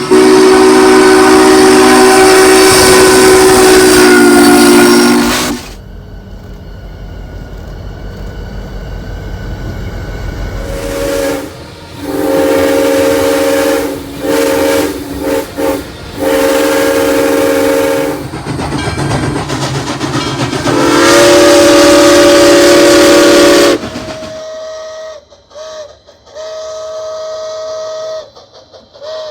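Steam locomotive's chime whistle on the Walt Disney World Railroad, sounding several notes at once: one long blast, then a series of shorter blasts, then another long blast. Near the end a quieter steady tone keeps breaking off and starting again.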